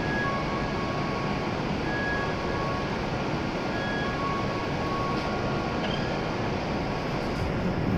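A stopped E7-series Shinkansen train gives off a steady hum and hiss from its running on-board equipment. Faint short high tones come and go over it.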